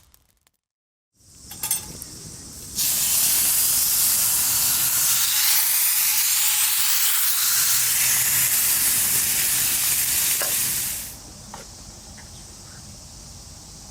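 Steak sizzling in a hot frying pan over a campfire: a steady, loud frying hiss that starts about three seconds in and drops to a softer sizzle about eleven seconds in.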